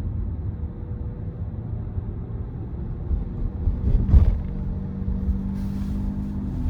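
Tyre and road noise of a Tesla Model Y, an electric car, driving steadily: a continuous low rumble with a faint steady hum. About four seconds in, a brief louder surge of noise swells and fades.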